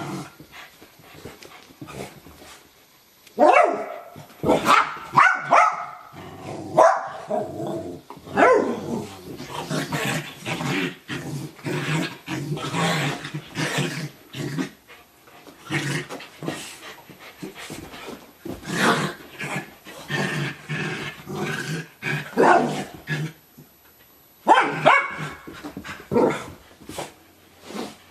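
Two dogs at play, barking and growling. Separate barks come early and again near the end, with a long, nearly continuous stretch of rough play-growling and barking in between.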